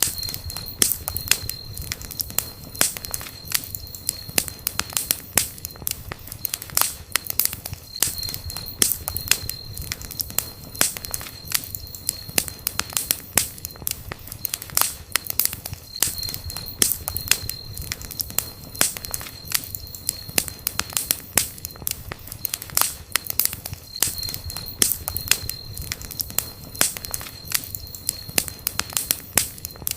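Wood campfire burning, with constant sharp crackles and pops over a low rumble of flames.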